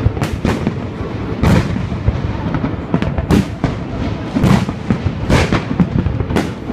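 Fireworks display: shells bursting with sharp booms roughly once a second, some in quick pairs, over a continuous rumble and crackle.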